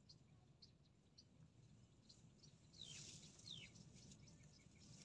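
Faint bird calls: short high chirps repeating about twice a second, with two quick downward-sliding whistles about three seconds in, over a faint low outdoor rumble.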